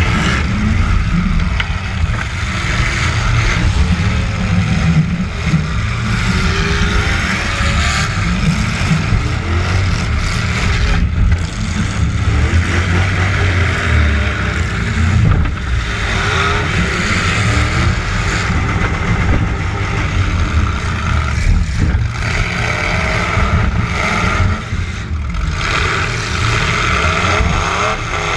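Demolition derby truck engine running hard and revving up and down, heard loud and close, its pitch rising and falling repeatedly.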